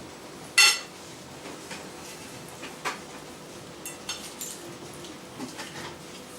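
Cutlery clinking against a bowl while eating salad: one loud, brief ringing clink about half a second in, then a few lighter clinks and taps.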